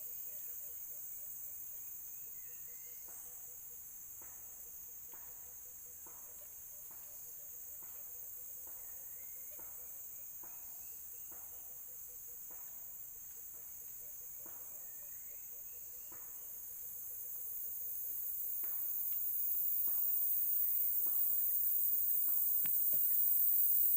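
A steady high-pitched insect chorus, growing louder over the last several seconds. Beneath it, faint short calls repeat about once a second.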